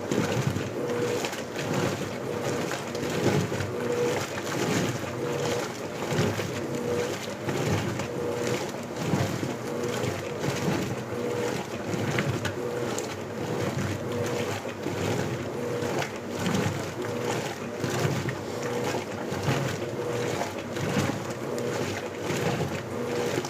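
Electrolux LBU15 top-loading washing machine agitating a load on turbo agitation: water and clothes sloshing in the tub in repeated swells, with a faint motor hum.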